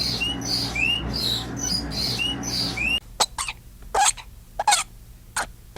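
A bird calling over and over with short chirps that rise quickly in pitch, over a low hum. About three seconds in, an abrupt cut brings short, sharp, irregular animal calls, like clucks or coughs.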